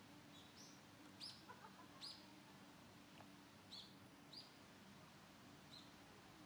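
Small birds giving a scattered series of short, high chirps, faint, over a steady low hum.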